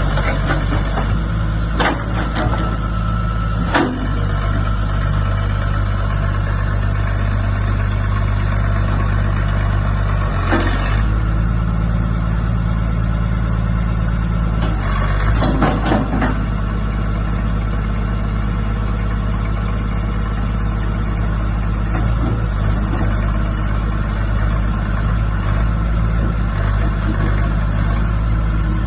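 Diesel engine of a Hitachi UH062 excavator running steadily, with a few short knocks and clanks over it.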